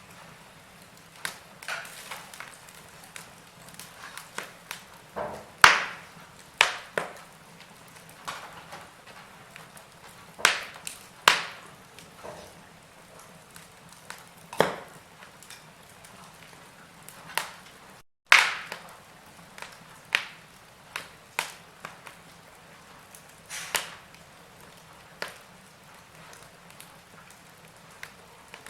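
Wood fire in a fireplace crackling: irregular sharp pops and snaps, a few of them loud, over a soft hiss. The sound cuts out for a split second a little past the middle.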